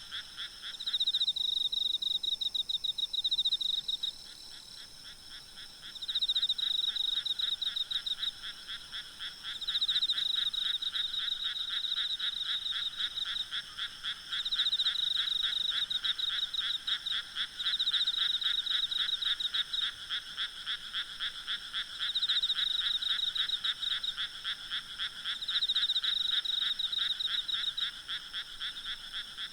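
Frogs croaking in a night chorus, rapid pulsed calls that swell in bouts every three to four seconds, over a steady high insect drone.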